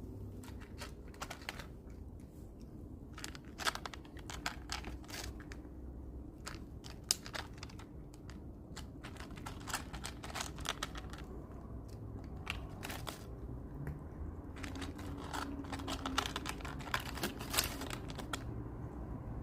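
A cat crunching dry food: irregular sharp clicks and crunches coming in clusters, with short pauses between bursts.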